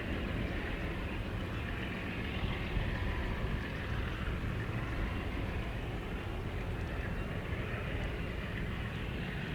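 A train running along the line: a steady rumble of wagons on the rails, with no change in level.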